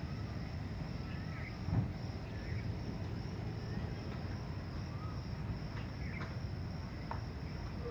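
Outdoor background: a steady low rumble with faint, short bird chirps repeating every second or so, and a single thump about two seconds in.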